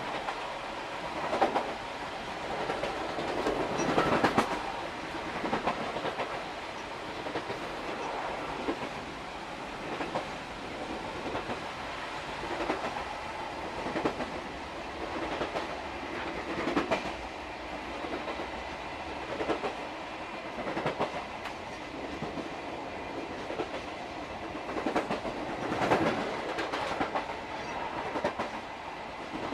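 Wheels of a SuHaFu 42 old-type passenger coach clattering over jointed rail, with clickety-clack groups repeating about every second and a half over a steady running rumble. The locomotive's motors are barely heard because the train is running downhill.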